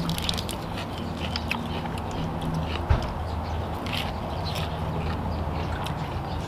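Close-up eating of a blood cockle wrapped in a lettuce leaf: chewing and crunching heard as many short, crisp clicks, with a single dull knock about three seconds in. A low steady hum runs underneath.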